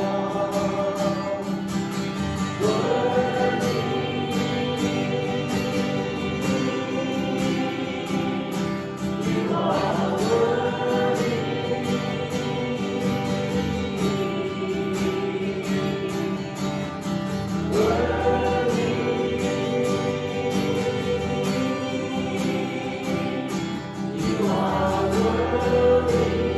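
Worship music: a band with guitar and a steady beat, with voices singing. A rising sung phrase swells back in about every seven to eight seconds.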